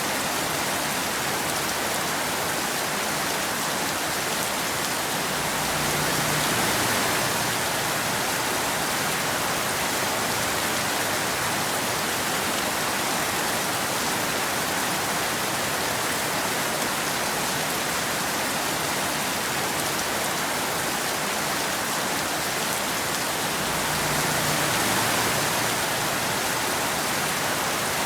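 Steady rain falling, an even hiss of drops, with a soft low swell twice: about six seconds in and again near the end.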